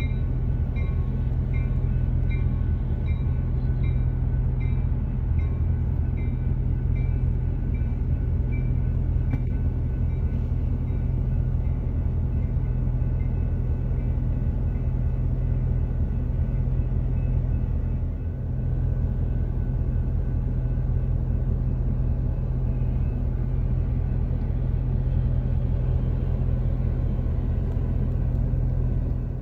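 Diesel passenger train rolling through a level crossing with a steady deep rumble. For about the first ten seconds the crossing-signal bell rings about twice a second, then fades under the train noise.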